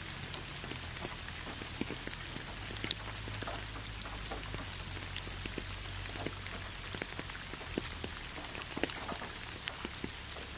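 Steady rain falling on a surface, a constant hiss with many individual drops clicking sharply through it.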